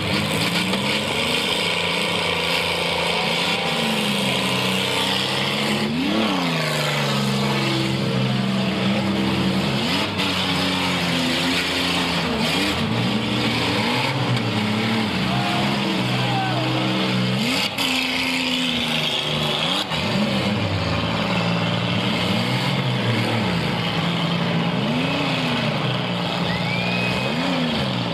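Several demolition derby cars' engines running and revving, their pitch rising and falling again and again, with a few sharp crashes of car against car.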